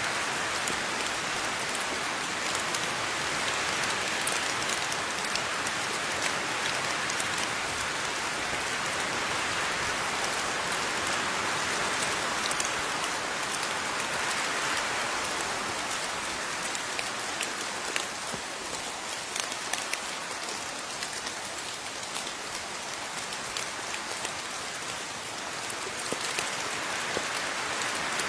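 Steady rain with individual drops pattering on a surface, a constant hiss over many small drop clicks.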